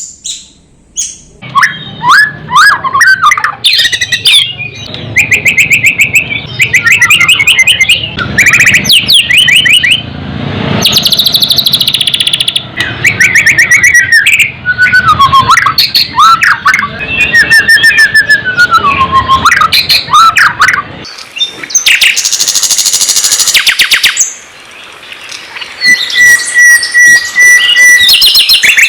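Loud, varied songbird song from a masteran tutor recording for training a white-rumped shama: fast trills and whistled phrases that glide up and down, with a harsh chattering burst a little past the middle and a held whistle near the end.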